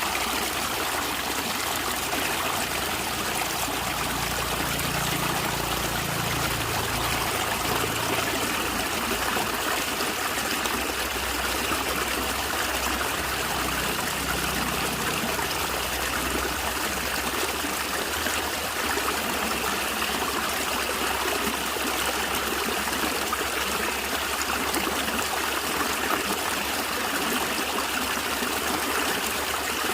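A natural stream of water running and gurgling steadily, a constant rushing burble with no breaks.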